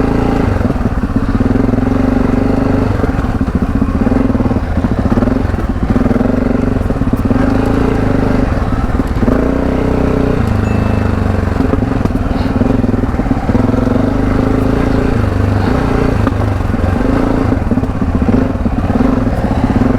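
Parallel-twin adventure motorcycle engine running under changing throttle while riding off-road, its pitch repeatedly rising and dropping.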